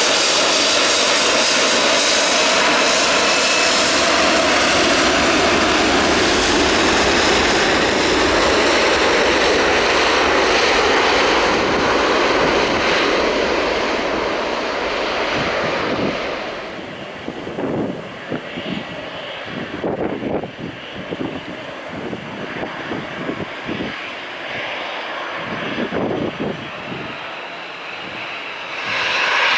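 Airbus A330-243 jet engines at take-off power, a loud steady roar fading slowly as the airliner climbs away. After a cut, the sound is a quieter, distant Airbus A321 jet with uneven gusts on the microphone, rising loud again near the end as the engines spool up.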